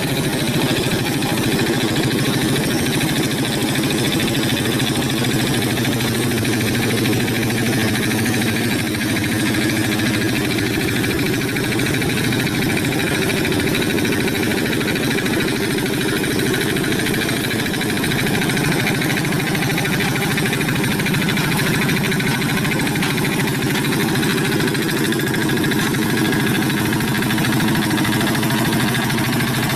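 Hand tractor's single-cylinder diesel engine running steadily, its even chugging unchanged throughout.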